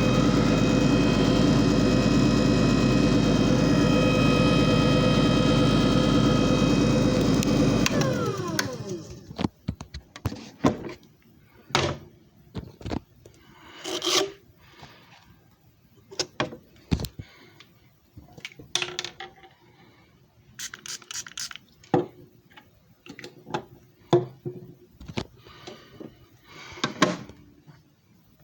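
JFJ Easy Pro disc repair machine running steadily with a whine, then winding down with a falling pitch about eight seconds in. Scattered clicks, knocks and rubbing follow.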